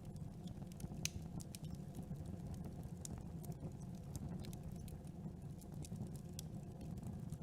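Campfire burning: a steady low rumble of the flames with scattered sharp crackles and pops of the wood, the loudest pop about a second in.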